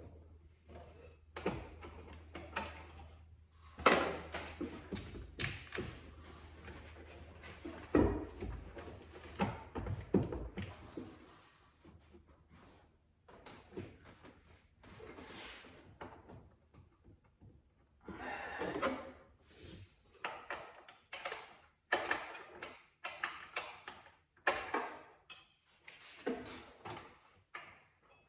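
Irregular knocks, clicks and thunks of hand tools and parts being worked on a car's blower motor housing, with the two loudest knocks about four and eight seconds in and a brief scrape later on. A low steady hum sits underneath for the first part.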